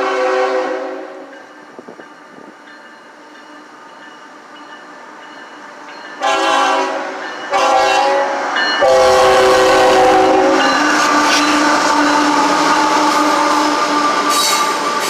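CSX freight locomotive's air horn sounding for a grade crossing. One blast comes at the start. Then, after a quieter rumble of the approaching train, more blasts begin about six seconds in, the last one long, and the train goes on loudly as it comes by.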